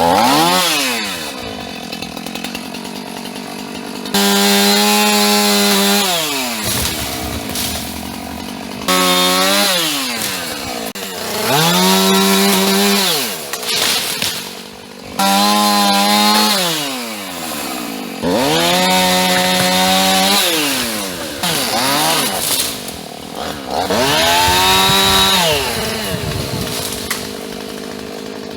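Two-stroke chainsaw cutting tree limbs, the engine revved to full throttle and held for a second or two, then dropped back to idle, about seven times over.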